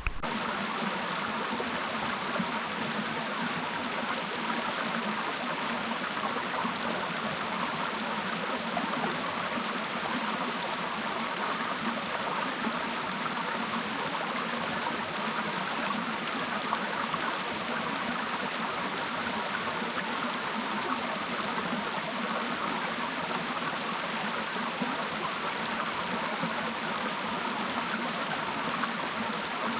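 Small mountain stream running over rocks: a steady, even rush of flowing water.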